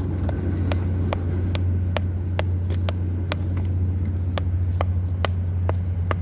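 A machine running with a steady low hum and sharp, regular ticking, about two to three ticks a second.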